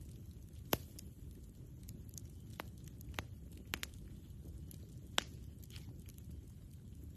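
Campfire wood crackling: about six sharp pops, the loudest about three-quarters of a second in and another about five seconds in, over a low steady rumble.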